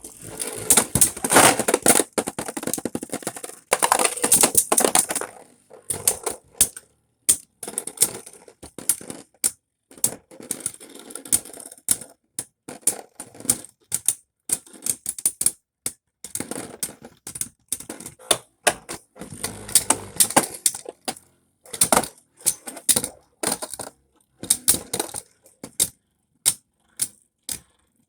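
Beyblade spinning tops clattering and colliding in a plastic stadium: runs of sharp, rapid clicks and knocks that come in clusters of a second or two, with short gaps between them.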